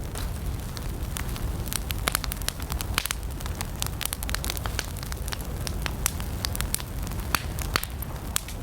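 Campfire of burning wood crackling and popping, with sharp irregular snaps over a steady low rumble of the flames.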